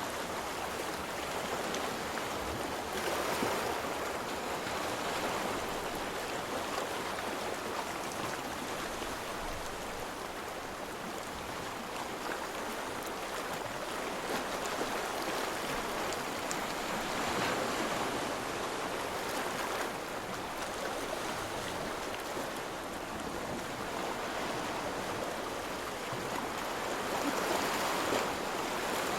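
Steady rush of moving water, swelling louder a few times, at intervals of roughly ten to fifteen seconds.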